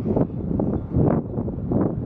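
Wind buffeting the microphone in uneven gusts, a low noise that swells and drops several times a second.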